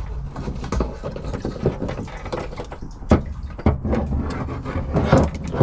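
Irregular plastic knocks and rattles as a BMW E34's in-tank fuel pump assembly is yanked out of the fuel tank, with liquid sounds of spilling fuel.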